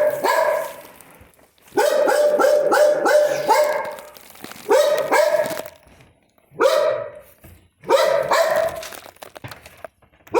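A dog barking in bouts of rapid, high yaps: a fast run of several barks about two seconds in, then shorter bursts of one to three barks.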